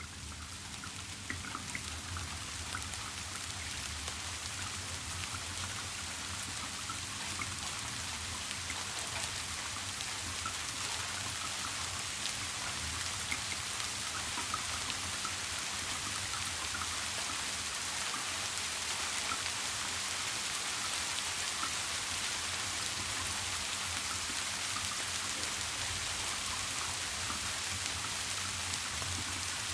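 Steady rainfall with scattered individual drop ticks, swelling gently over the first several seconds and then holding steady.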